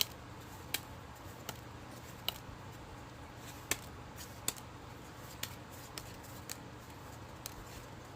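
Bakugan trading cards being flipped through one by one, a short sharp card snap about every three-quarters of a second, over a faint steady low hum.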